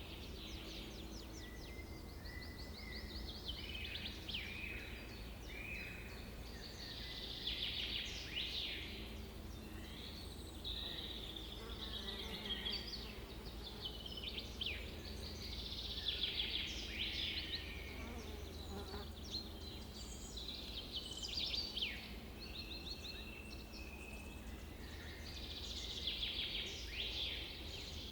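Several birds singing and calling, with rapid trills and quick down-slurred notes in clusters every few seconds, over a steady low rumble.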